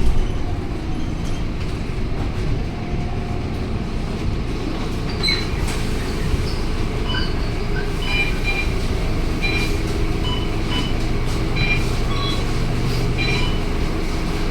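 Scania K230UB single-deck bus running on the move: a steady low engine and road drone, with short high squeaks and chirps joining in from about five seconds in.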